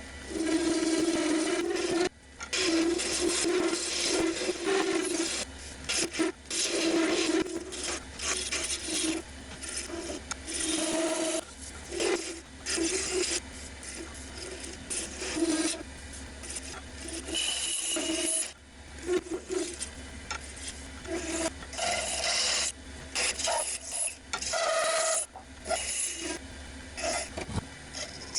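Turning tool cutting a spinning piece of wood on a wood lathe, with repeated scraping passes of a second or two broken by short pauses, over the steady hum of the lathe motor.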